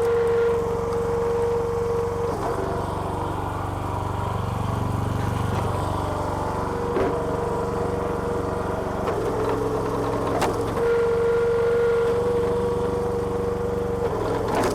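Small petrol engine of a homemade hydraulic log splitter running steadily, with a higher whine that comes in and drops out three times, and a couple of sharp clicks in the middle.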